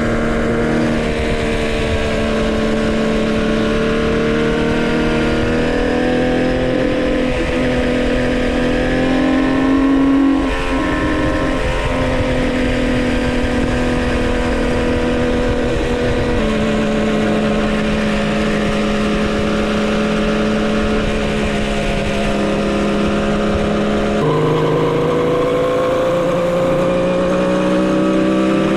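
Homemade three-cylinder two-stroke motorcycle engine running under way while being broken in. Its pitch climbs slowly for about the first ten seconds, drops sharply, steps down again past the middle, and climbs again near the end.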